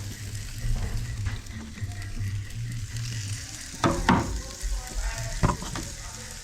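Whole bream sizzling on a hot barbecue plate, with a few sharp clicks about four seconds and five and a half seconds in.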